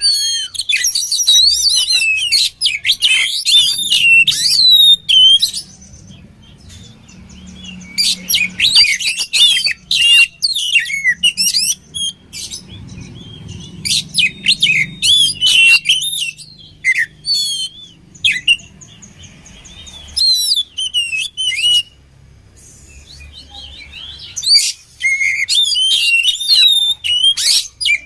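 Oriental magpie-robin (kacer) singing: loud bursts of rapid, varied whistles and twittering phrases, each a few seconds long, with pauses of two or three seconds between them.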